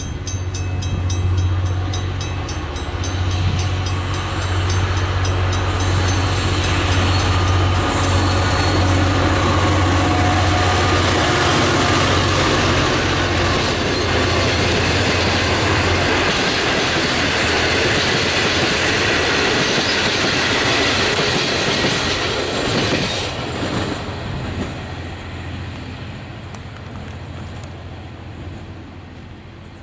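A Safetran mechanical railway warning bell rings with a rapid, even stroke for the first few seconds, signalling an approaching train. It is then drowned out as a loco-hauled passenger train passes close by: a low steady engine hum for about the first half, then the rush and rumble of the carriages' wheels on the rails. The rumble fades away over the last few seconds.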